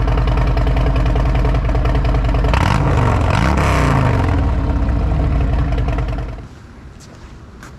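Harley-Davidson Road Glide's Milwaukee-Eight 114 V-twin idling, with one quick throttle blip about three seconds in that rises and falls. The engine sound stops abruptly a little after six seconds.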